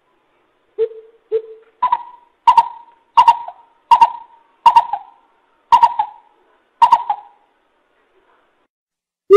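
Coucal calling in a series of deep hoots. Two low hoots come first, then seven higher, sharper notes about two-thirds of a second apart that slow down toward the end. After a pause, a fast run of low hoots starts right at the end.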